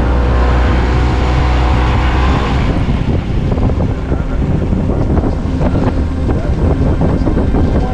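Small boat motor running steadily, then easing off about three seconds in, leaving wind buffeting the microphone over a fainter engine hum.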